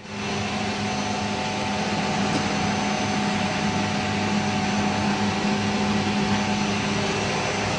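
Snack production line machinery running steadily under test: a continuous even hum with a constant low tone over a broad hiss.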